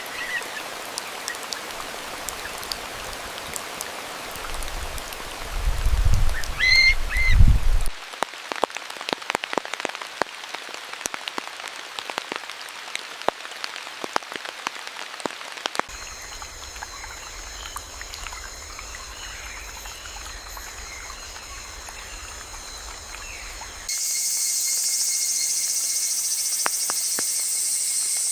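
Rain falling and dripping through foliage, with a low rumble and a couple of short bird chirps about six to seven seconds in, then a stretch of patter with many sharp drips. From about two-thirds of the way through, steady high insect calls take over, growing to a louder continuous buzz near the end.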